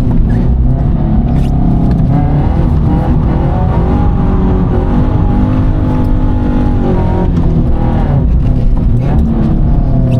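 Toyota GT86's 2.0-litre flat-four boxer engine running hard under throttle. Its pitch rises and falls in long swells, one through the middle and another climbing near the end.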